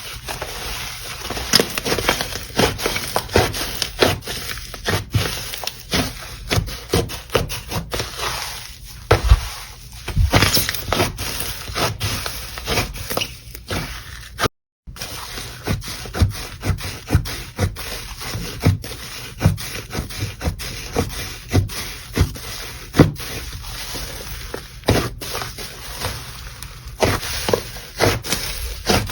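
Slime being pressed and played with by hand, giving a dense, irregular run of sharp crackling clicks and pops. The sound cuts out briefly about halfway through, then carries on the same way.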